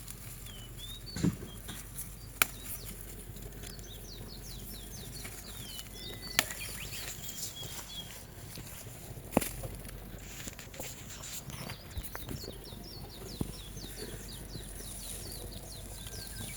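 A songbird singing in rapid runs of short, high notes, several phrases with pauses between, over faint steady outdoor background. A few sharp clicks or snaps stand out, the loudest about 2.5, 6.5 and 9.5 seconds in.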